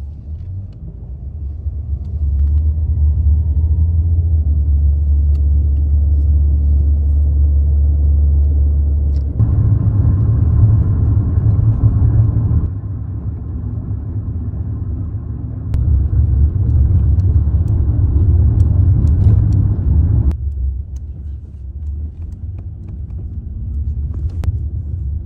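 Loud, steady low rumble that changes abruptly in level and tone about four times.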